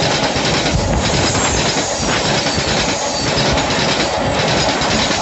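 Train running along the track: a steady, loud rush and rumble of wheels on rails, with the noise easing slightly about once a second.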